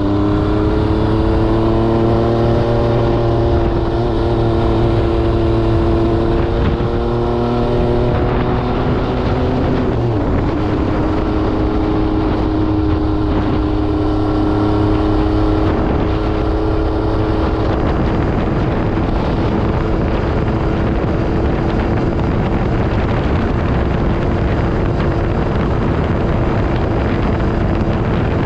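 The 2022 MV Agusta Brutale 800RR's three-cylinder engine running through an SC Project exhaust while riding. The engine note climbs slowly for about ten seconds, drops briefly, then holds steady at cruise, with wind noise underneath.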